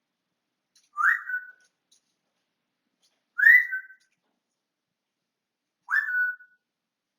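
African grey parrot whistling: three short whistles about two and a half seconds apart, each a quick upward sweep that settles into a brief steady note.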